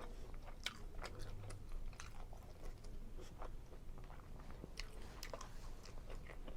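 A person chewing a mouthful of seafood Alfredo linguine close to the microphone: soft, irregular clicks and smacks of the mouth.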